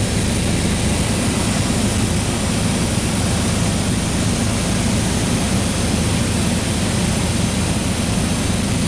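Helicopter cabin noise in flight: a loud, even rush of engine and rotor with a steady low drone underneath.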